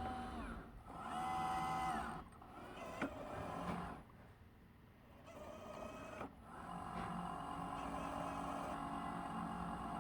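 Roomba S9+ robot vacuum running, its drive-wheel motors whining in pitches that rise and fall as the little wheels free-spin without traction on carpet. It goes quieter for a couple of seconds around the middle, then settles into a steady hum.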